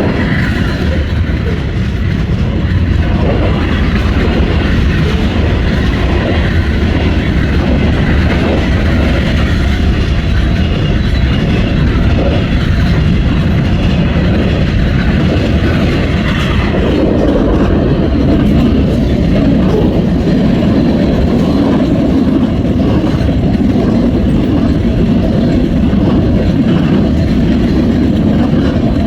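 Norfolk Southern freight train's cars rolling past close by, steel wheels clattering over the rails in a loud, continuous rumble whose tone shifts about two thirds of the way through.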